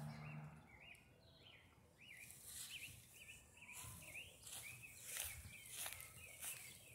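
Faint bird chirping outdoors: a long run of short rising-and-falling notes, two or three a second, starting about a second in. Soft footsteps through grass sound along with it.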